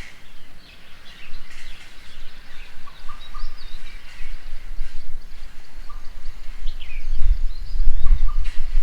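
Birds chirping and calling around a bird table, with many short, scattered calls. A low rumble swells briefly near the end and is the loudest sound.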